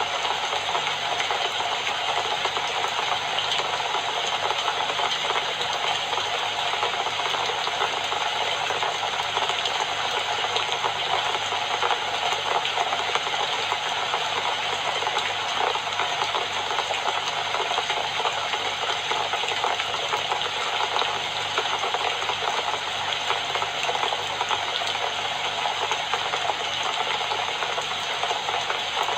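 Steady rainfall, a dense even hiss of falling rain with fine pattering throughout.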